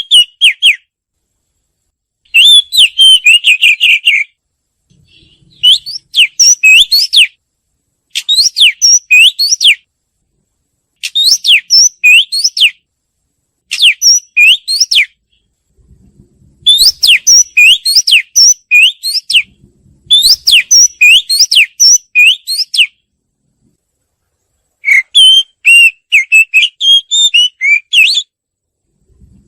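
Oriental magpie-robin singing: loud phrases of quick, sweeping whistled notes, each one to three seconds long, repeated after short pauses.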